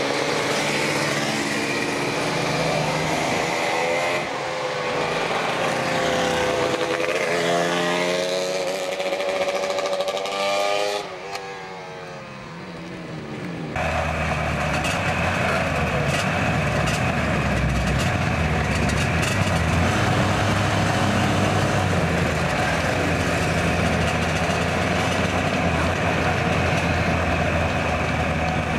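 Yamaha air-cooled two-stroke motorcycles riding past one after another, their engine notes rising and falling in pitch as each goes by. About halfway through the sound cuts abruptly to the steady run of a Yamaha RD400's two-stroke twin, heard from on the bike as it rides along in the group.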